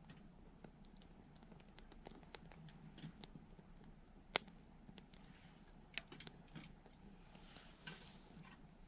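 Wood fire crackling: irregular small pops and snaps, with one sharper pop about four and a half seconds in and a brief soft hiss near the end.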